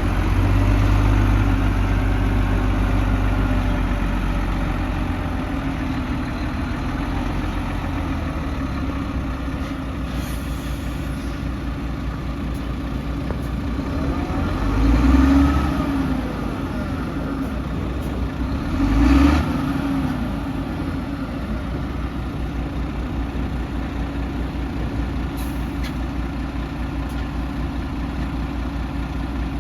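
Heavy diesel earthmoving machine running steadily, with two brief surges in engine speed, rising and falling in pitch, about halfway through.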